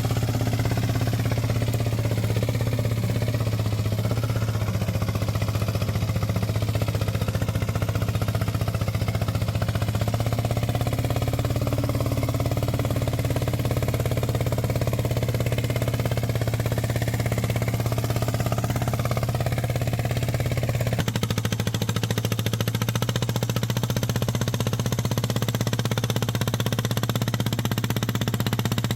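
Homemade mini tractor's small engine running steadily under load as it pulls a harrow across a field. Its tone shifts somewhat about two-thirds of the way through.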